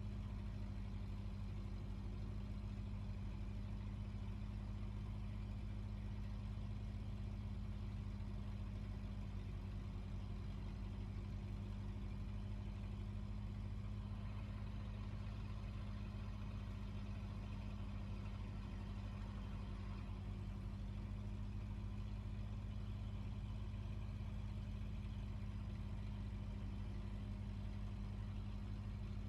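A fishing boat's engine runs with a steady low hum that holds an even pitch throughout.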